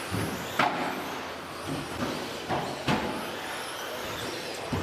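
2WD 13.5 brushless RC stadium trucks racing on the track: a steady hiss of motors and tyres, broken by several sharp knocks, about four, from trucks landing or striking the track.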